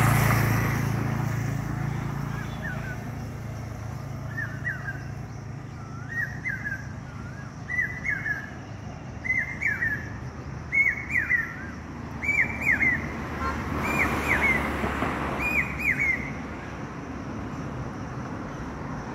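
A bird calls a series of about ten short whistled notes that glide down and up, one about every second and a half, each louder and a little higher than the last. A low, steady traffic hum runs beneath.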